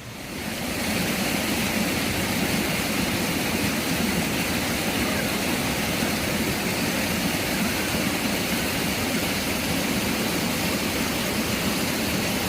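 A steady, loud rushing noise that swells in over the first second and then holds even.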